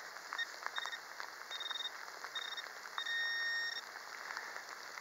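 Metal detector beeping on a buried target: about five short high beeps of the same pitch, the last one held for almost a second, over the steady hiss of heavy rain.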